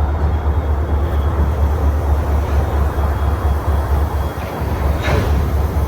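Freight train running past with a steady, loud, low rumble and rolling noise, with a brief higher-pitched sound near the end.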